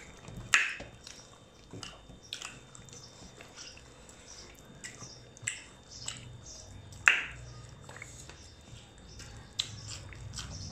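People eating with their fingers, chewing with wet lip smacks and mouth clicks scattered through, the sharpest about seven seconds in.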